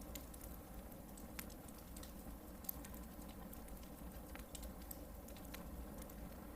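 Hardwood campfire burning: scattered sharp crackles and pops over a low steady rush of flame, with one louder pop a little under three seconds in.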